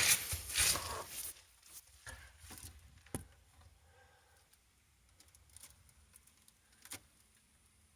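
Rustling and scuffing handling noise in the first couple of seconds, then quieter, with two sharp clicks about three and seven seconds in.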